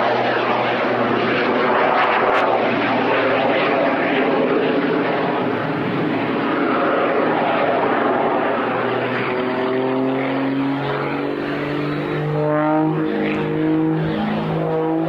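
Jet-augmented Pitts Special aerobatic biplane flying its display, a steady, loud roar of engine and propeller. About halfway through, the roar gives way to clear engine tones that shift up and down in pitch as the power changes.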